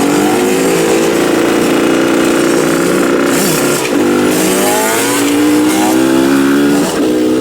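125cc two-stroke motorcycle engines running hard at high revs, their pitch dropping sharply about four seconds in and again near seven seconds before climbing again, as the throttle is rolled off and reopened.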